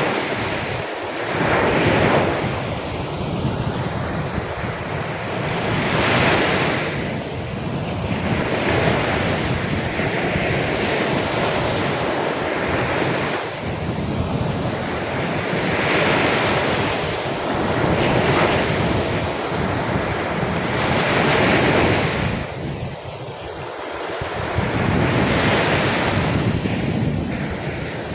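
Storm-driven surf breaking on a sandy beach, waves surging in and washing back every few seconds, with wind buffeting the microphone.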